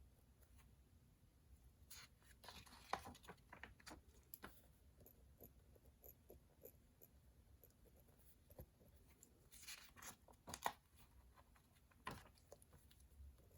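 Faint desk sounds of someone studying: short scratches of writing on paper and scattered small clicks and taps over a low room hum, busiest a couple of seconds in and again about ten seconds in.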